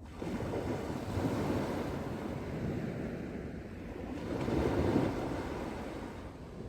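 Sea waves breaking and washing onto a beach, swelling louder twice, about a second in and again near the end, with wind.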